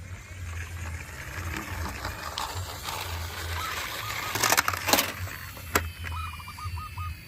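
Small diecast toy vehicles rolling and clattering on a hard surface, with a few sharp clicks about two-thirds of the way through.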